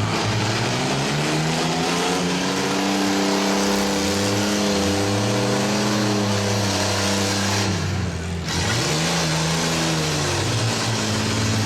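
Demolition derby car engine revving hard, its pitch climbing and falling as the car accelerates and backs off, with a sharp drop in revs about eight seconds in before it winds up again.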